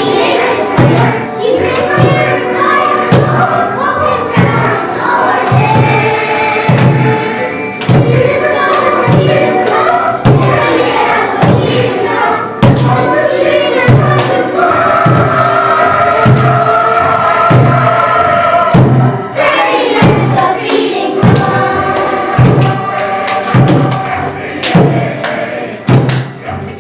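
Group of children singing a chant-like song over a steady drum beat, about one beat a second.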